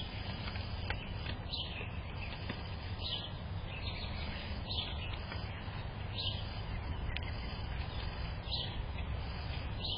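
A bird repeating a short, high call about every one and a half seconds, over a steady low rumble.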